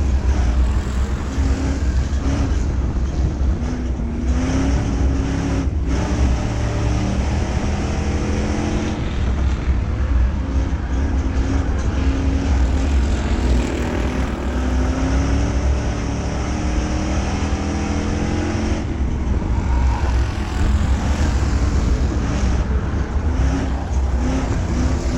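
Dirt-track race car engines running laps, rising and falling in pitch as they rev down the straights and ease off for the turns.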